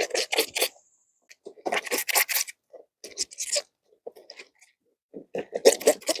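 Clothes being scrubbed by hand, wet fabric rubbed hard against fabric in quick rasping strokes. The strokes come in four short runs with pauses between.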